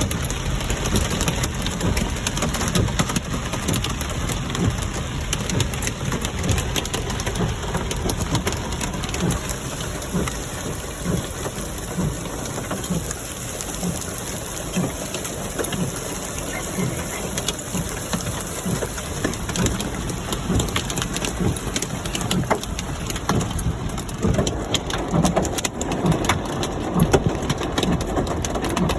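Hail falling with rain: a dense, steady clatter of many hard stones striking surfaces.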